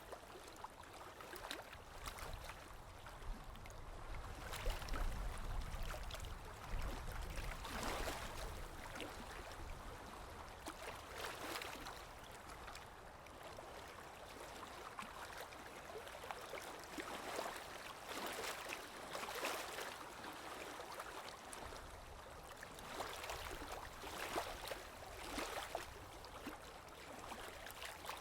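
Sea waves washing ashore: a rush of surf that swells and fades every few seconds, with a low rumble beneath some of the swells.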